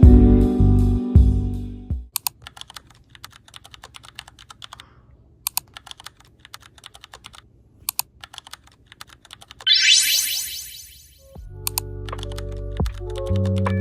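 Typing on a computer keyboard: irregular key clicks for about seven seconds, with a few louder strokes. The background music breaks off just before it, a rising sweep of tones follows, and the music comes back near the end.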